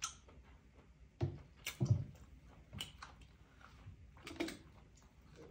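Person biting and chewing roast duck: a handful of separate short, sharp mouth sounds with quiet gaps between them.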